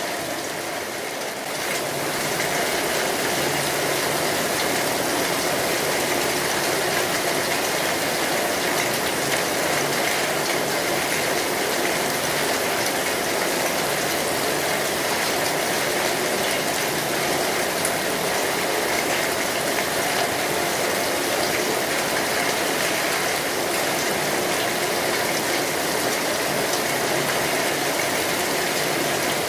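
Steady rain falling on an umbrella overhead, a dense even patter, a little softer for the first couple of seconds.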